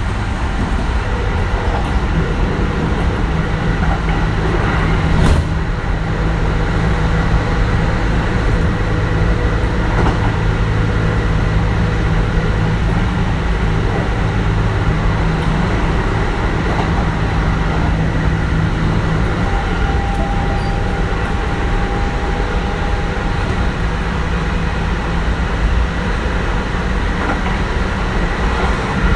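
Kintetsu 1420 series electric train with Mitsubishi GTO-VVVF traction equipment, heard from inside, running between stations. A steady rumble of wheels on the rails is carried under faint steady tones, with a single sharp knock about five seconds in.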